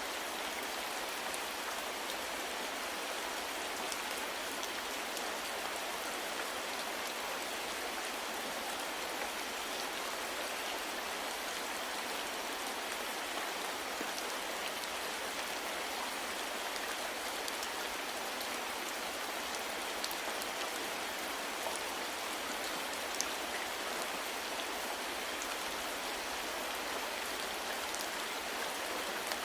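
Steady soft rain falling, an even hiss with scattered drop ticks.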